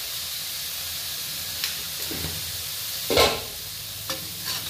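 Onion-tomato masala sizzling steadily in hot mustard oil in a kadhai. A few short knocks or scrapes come through, the loudest about three seconds in.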